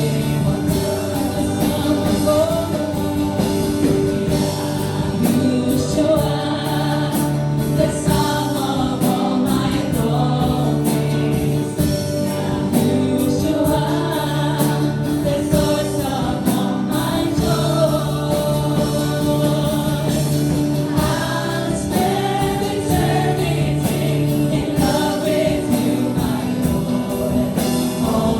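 A group of voices singing a gospel worship song in unison over a band accompaniment with a steady beat.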